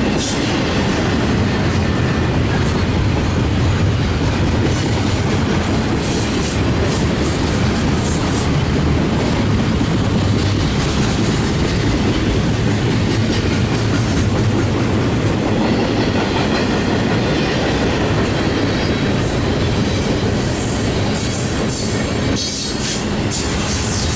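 Double-stack container cars of a CSX intermodal freight train rolling past: a loud, steady rumble of steel wheels on rail that holds level throughout.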